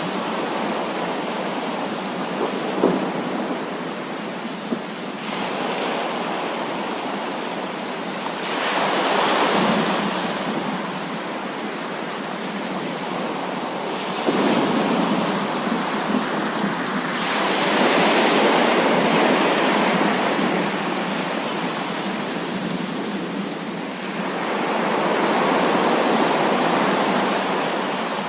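Heavy rain pouring steadily, swelling louder several times with long rolls of thunder. Two short, sharp cracks come a few seconds in.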